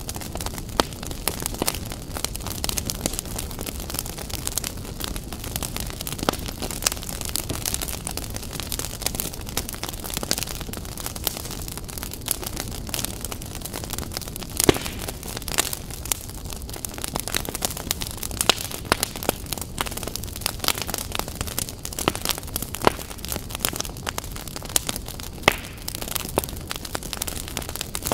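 Fire crackling: a steady low rumble of flames with irregular sharp pops and snaps.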